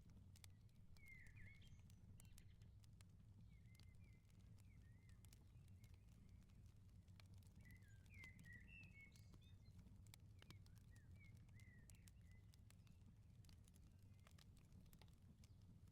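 Wood fire crackling with scattered sharp pops over a steady low rumble. A small bird chirps briefly about a second in, and again in a short run of chirps from about eight to twelve seconds in.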